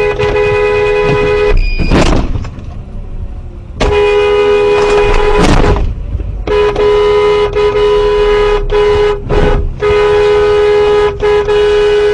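Vehicle horn sounding in long, loud, sustained blasts: one stops about a second and a half in, then blasts of about two, three and four seconds follow with short breaks, a steady two-tone note.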